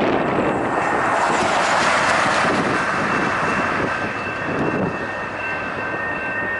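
Freight train rolling past: a steady rush of steel wheels on rail that swells about two seconds in, with a steady high-pitched whine over it.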